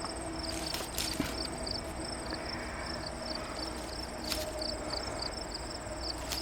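Late-summer insects calling: a high chirp repeating about two or three times a second over a steady, higher-pitched continuous trill. A few brief clicks or rustles cut in.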